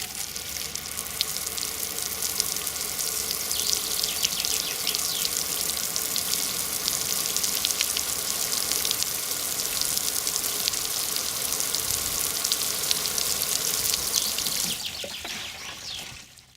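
A fine shower of water spraying onto a freshly repotted bonsai and its soil: a steady hiss that tails off near the end and stops.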